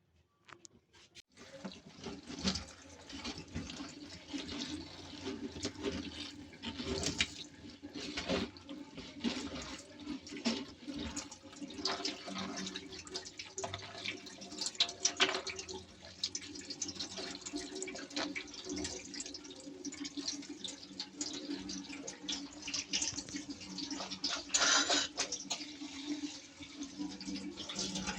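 Water running from a tap into a sink while things are washed and handled, with frequent short clinks and knocks throughout.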